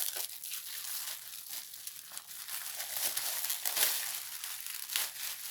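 Irregular crinkling and rustling of a boxed rose's packaging as hands unwrap and handle its root ball, packed in sawdust and damp peat.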